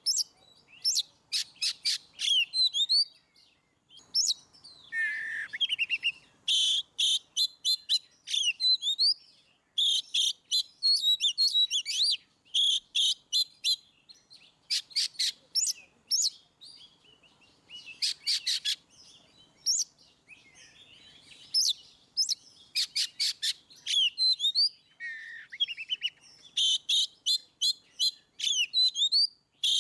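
Oriental magpie-robin (kacer) singing a loud, varied song: fast runs of repeated high chip notes mixed with short whistled glides, in phrases broken by brief pauses.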